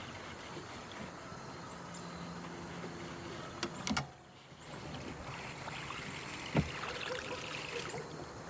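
Water sloshing and trickling around a kayak, with two sharp knocks on the hull or gear a little before halfway and a duller knock about two-thirds through.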